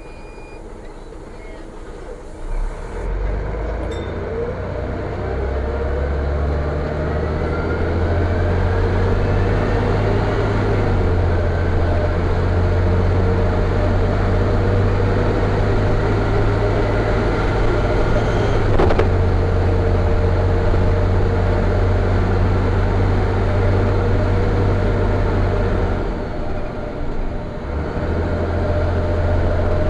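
Van Hool A320 city bus heard from inside the cabin: a low engine rumble builds as the bus pulls away, with a rising whine over the first few seconds. It then runs steadily at speed, eases off briefly near the end and picks up again.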